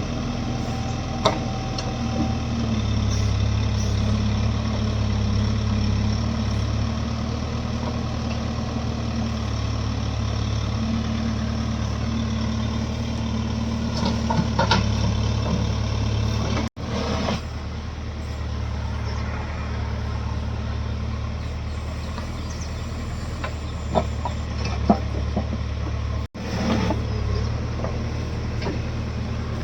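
Diesel engines of a JCB backhoe loader and a Mahindra 275 tractor running with a steady low drone, with a few short knocks as the loader works.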